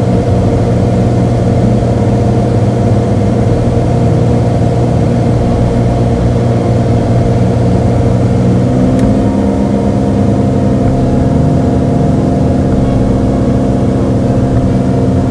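Beechcraft Bonanza's piston engine and propeller droning steadily in flight. Its tone changes about nine seconds in.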